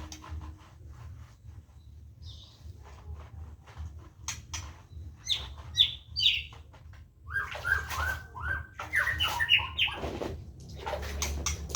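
Birds chirping and calling in short notes, sparse at first and denser in the second half, with scattered clicks and knocks throughout over a steady low hum.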